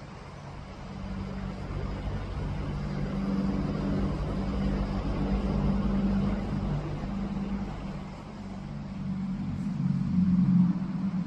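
Low engine hum from motor vehicles. It swells towards the middle, eases off, then swells again near the end.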